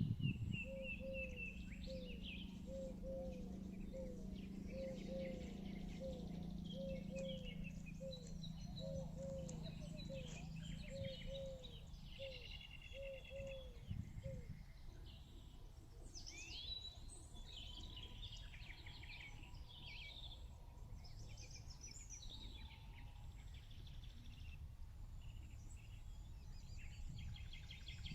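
Faint outdoor ambience with several birds chirping and trilling throughout. In the first half, a short low call repeats about twice a second and a steady low hum runs beneath it; both stop partway through.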